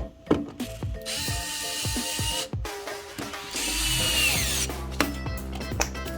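Handheld power tool running in two short bursts, the second winding down at the end, over background music.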